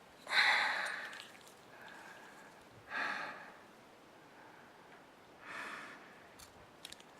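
A man breathing out in three breathy puffs, about two and a half seconds apart; the first, about a second in, is the loudest.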